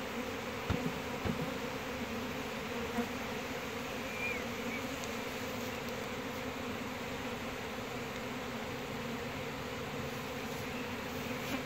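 A mass of honeybees buzzing around an opened hive, a steady, even drone, with a few faint knocks in the first seconds.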